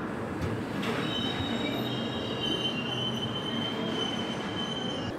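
Indian express train's coaches rolling with a steady rumble and a high, thin metal-on-metal wheel squeal that sets in about a second in and holds until near the end.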